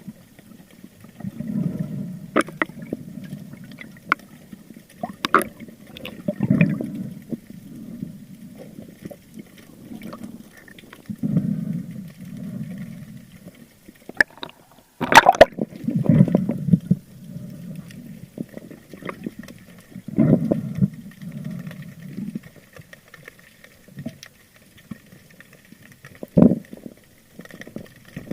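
Underwater water noise: surges of gurgling and bubbling around a diver's camera, with a few sharp clicks, the loudest about halfway through.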